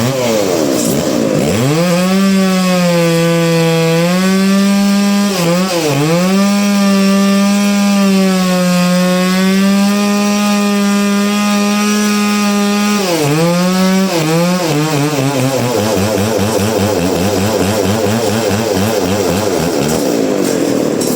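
Chainsaw cutting into a log. Its engine pitch sags and recovers several times as the chain bites, holds high and steady through the middle, then wavers lower near the end.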